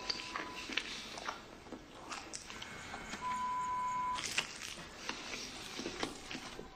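A man chewing a chocolate bar, with small crunchy clicks and crackles scattered throughout. A short steady electronic beep sounds at the start, and a longer, louder one of about a second comes midway.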